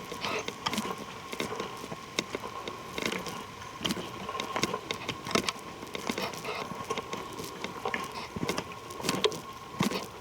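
Footsteps walking on a dry forest trail: an uneven run of crunches and cracks underfoot. A faint steady high tone runs underneath.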